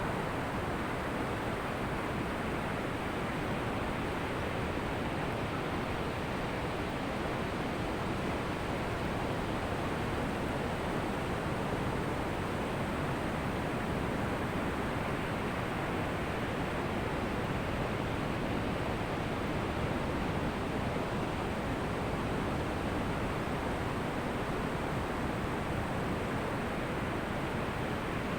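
Ocean surf on a beach: a steady, even rush of waves with no separate crashes standing out.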